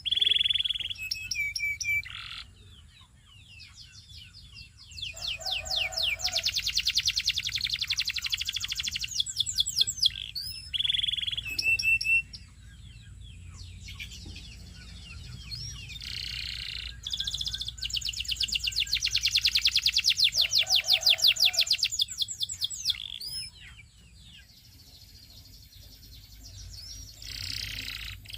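Belgian singing canary singing: long, fast rolling trills and chattering runs of high sweeping notes, broken by a short low, deep note. The same sequence of phrases comes round twice.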